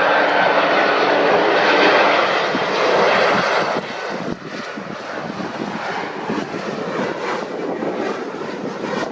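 Loud airliner jet engine noise as an aircraft passes close by, with faint steady whining tones in it; it drops suddenly about four seconds in, leaving a lower, fluctuating rumble.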